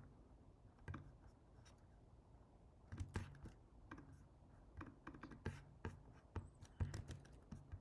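Faint computer keyboard typing and mouse clicks: irregular, scattered keystrokes, few at first and more frequent from about three seconds in.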